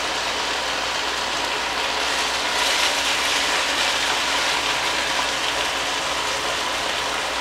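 Strips of beef searing in a hot pot: a steady, dense sizzle and crackle, a little louder for a couple of seconds around the middle as mushrooms are stirred in.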